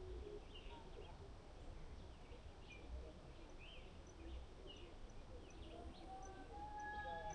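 Many short bird chirps and calls over a steady low outdoor rumble, all faint. Near the end there is a drawn-out tone.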